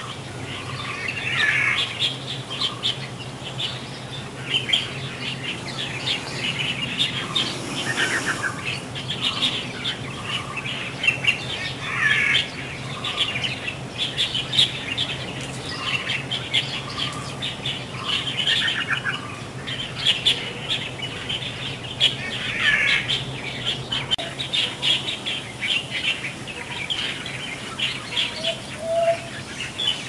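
Birds chirping: a steady run of short, high chirps, with a similar call phrase coming back every few seconds, over a faint low hum.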